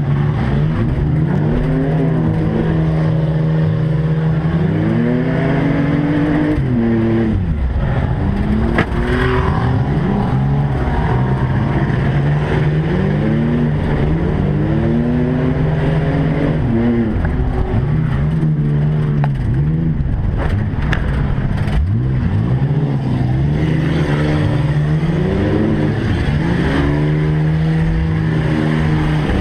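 Several racing trucks' engines running hard at once, their pitch climbing and falling over and over as they rev up, back off and pass by.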